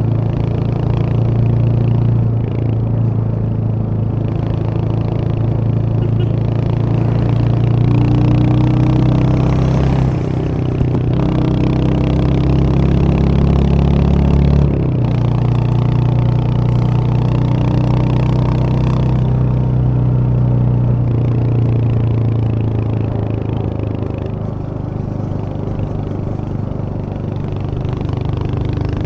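Royal Enfield Hunter 350's 349 cc single-cylinder engine running steadily under way, heard from the rider's position. The engine note shifts pitch about ten seconds in and again about five seconds later.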